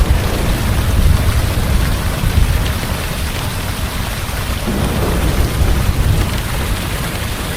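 Heavy rain pouring steadily, with a deep rolling rumble of thunder underneath.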